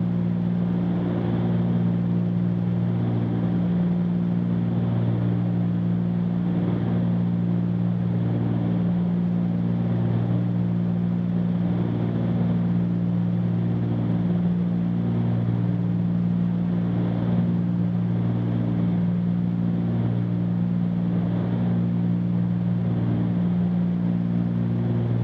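The Cessna 310Q's twin piston engines and propellers running steadily, heard from inside the cabin as a loud, even drone with a slow, regular pulsing beat.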